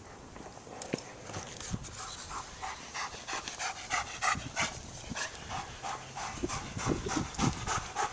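Dog panting rapidly and close by, about four breaths a second, with a few soft low thumps.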